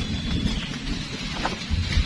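Thunder rumbling over heavy rain; the low rumble comes in suddenly at the start and keeps going.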